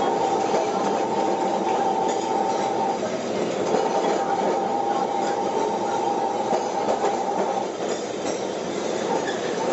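Calcutta tram running on its rails: a steady rumble with a steady high whine over it that drops out about three quarters of the way through.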